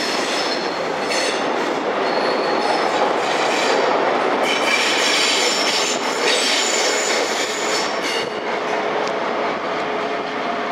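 Mark 3 coaches of Network Rail's HST New Measurement Train rolling past close by, wheels rumbling and clacking on the rails, with high-pitched wheel squeals that come and go. A steady low hum joins in near the end.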